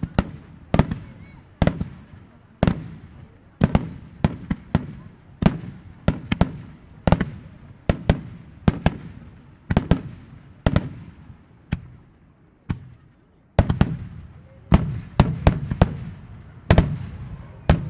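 Aerial firework shells bursting in quick succession in a display finale, sharp bangs about one to two a second, each trailing off in a rolling echo, with a short lull about two-thirds of the way through.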